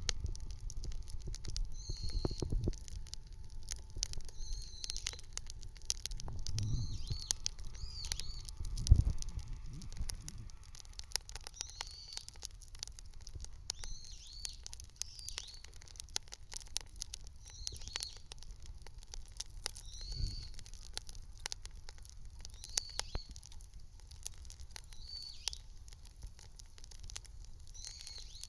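Bonfire crackling with many small sharp snaps and pops, a few dull thumps among them. A bird calls again and again in the background.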